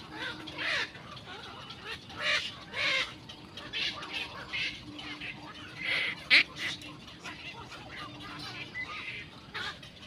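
Birds calling: short, scattered calls throughout, with one sharp call loudest a little past the middle, over a faint steady low hum.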